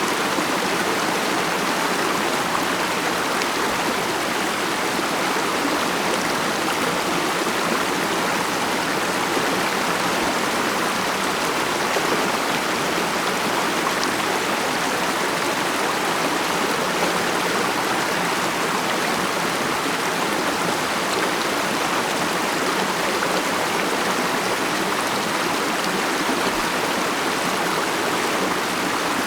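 A mountain stream running over rocks: a steady, even babble and rush of flowing water.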